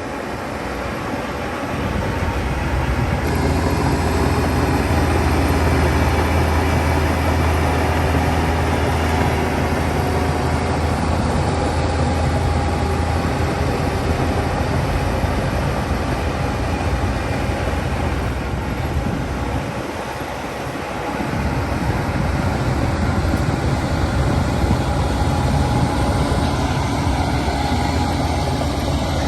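Heavy diesel engine of a Shantui DH17 crawler bulldozer working under load, with a deep steady rumble. It grows louder about three seconds in, eases off for a moment about two-thirds of the way through, then picks up again.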